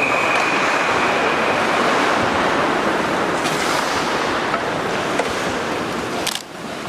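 Steady scraping hiss of hockey skates on rink ice during play. A steady high whistle tone fades out within the first two seconds, and a couple of short knocks come near the end.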